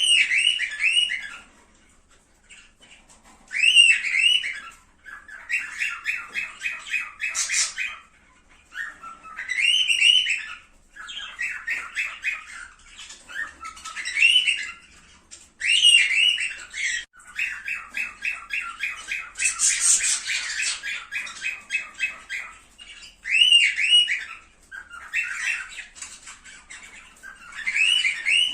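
Cockatiels calling in short bursts every second or two: arched two-note whistled calls alternating with rapid chattering trills, the kind of call recording played to bring cockatiels into breeding condition.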